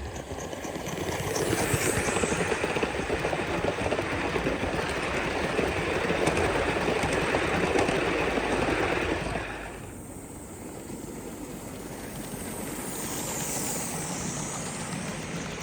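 Gauge 1 live-steam model locomotive letting off steam: a loud, steady hiss that builds about a second in and dies down about ten seconds in, leaving a softer background hiss.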